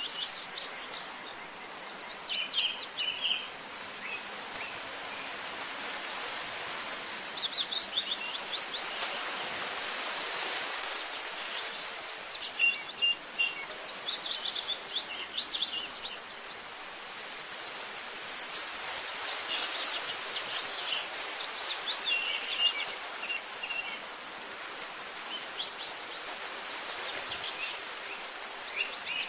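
Small birds chirping and trilling on and off over a steady rushing hiss of outdoor ambience.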